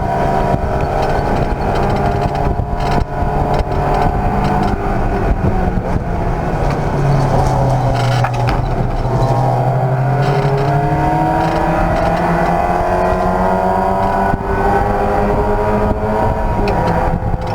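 Race car engine running hard on track. After about nine seconds its pitch climbs steadily as the car accelerates.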